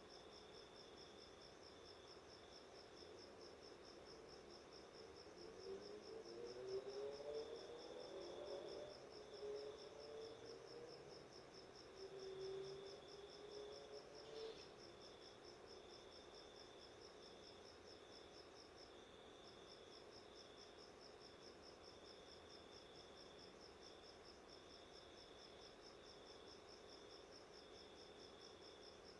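Faint steady insect trilling, high-pitched and rapidly pulsing, with a fainter broken tone beneath it. From about five to fourteen seconds in, a low rising drone swells and fades.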